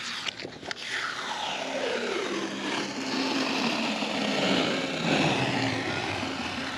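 A loud rushing, engine-like noise whose pitch falls steadily over about four seconds, in the manner of an aircraft passing by.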